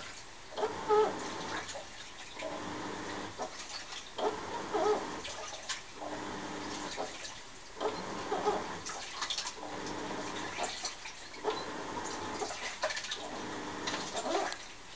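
Washing machine on its wash cycle: water sloshing in the drum as it turns one way and then the other, about every two seconds, with a short squeaky whine in each stroke.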